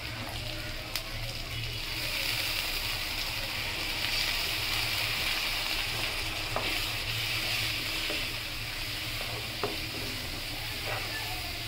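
Onions, spices and green chillies frying in oil in a wok with a steady sizzle that grows louder about two seconds in. A wooden spatula stirs the pan near the end, with a few light knocks.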